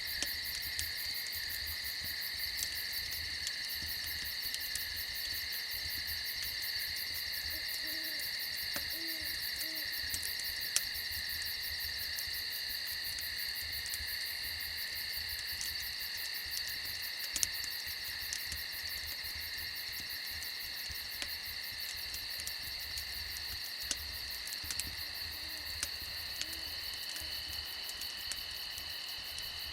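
A steady night chorus of crickets trilling in several high pitches. An owl hoots faintly a few times about eight to ten seconds in and again near the end. Scattered sharp pops from a crackling campfire.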